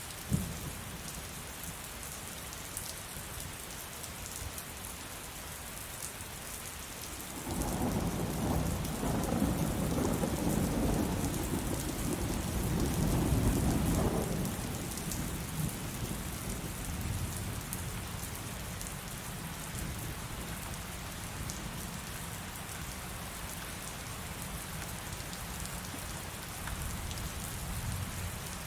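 Steady heavy rain. A brief sharp crack comes right at the start, and about seven seconds in a long, low thunder rumble rolls for about seven seconds, growing loudest before it fades back under the rain.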